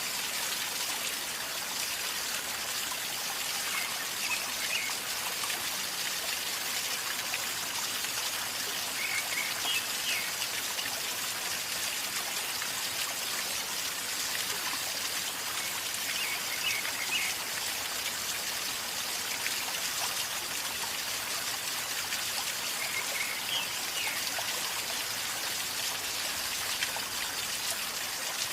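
A river flowing calmly: a steady gurgling, trickling wash of water.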